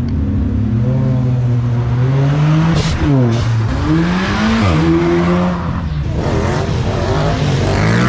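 Car engine revved hard several times as the car pulls away, its pitch climbing and dropping sharply in quick blips around three and four and a half seconds in, then rising again near the end.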